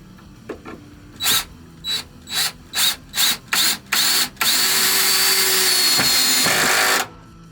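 Power drill driving a screw: seven short trigger bursts about two a second, then a continuous run of about two and a half seconds that stops abruptly. The drill is one its owner says hasn't been working right.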